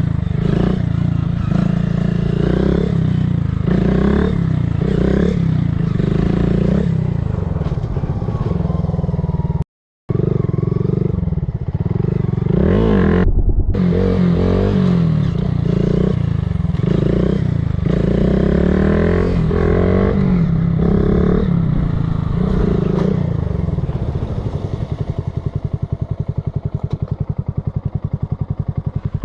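Motorcycle engine revving up and down again and again as the rider accelerates and shifts gears. The sound cuts out briefly about ten seconds in, and near the end the engine settles into a steadier, low, even pulsing note.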